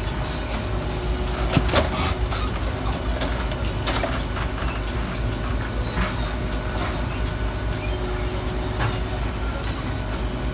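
Garbage truck engine running steadily with a low rumble, with a few sharp metallic knocks and clanks, the loudest about a second and a half in.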